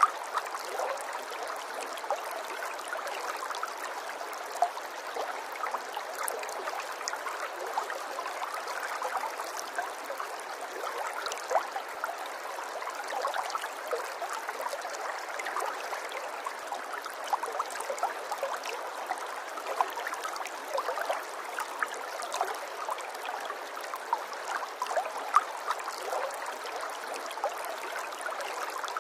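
Running water trickling and gurgling steadily, with many small splashes flickering through it and no low rumble.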